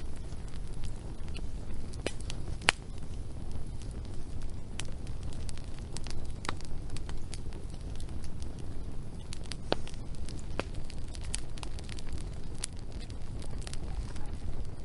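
Wood fire crackling: scattered sharp pops and snaps over a low steady rumble, with one louder pop a little under three seconds in.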